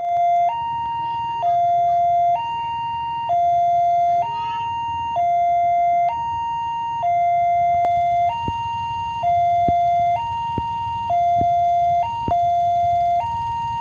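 Two-tone electronic hi-lo siren alternating steadily between a low and a high note, each held just under a second, over a low rumble.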